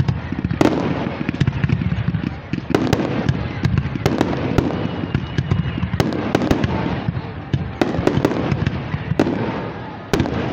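Fireworks display of ground fountains and aerial shells going off: a dense, steady crackle and rumble, cut by sharp bangs about once a second.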